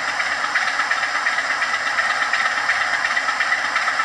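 Model Class 47 diesel locomotive's sound decoder playing a steady idling Sulzer engine through the model's small standard speaker. The sound is thin, with almost no bass.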